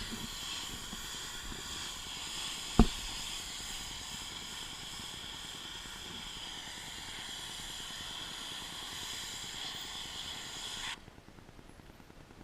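Pressure washer spraying with a steady hiss, cutting off abruptly near the end. One sharp knock about three seconds in.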